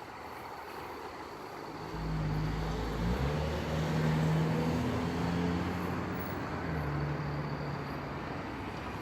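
A motor vehicle's engine running nearby, coming in about two seconds in as a steady hum that shifts pitch a few times, then easing off near the end.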